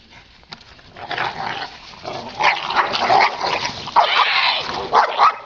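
Dogs yipping and barking in play during a tug of war over a frisbee, starting about a second in and running in a dense rough stretch of about four seconds.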